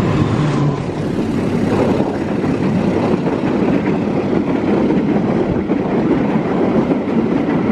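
Train passing at close range: a steady, loud rumble and rail noise. The end of its horn blast stops under a second in.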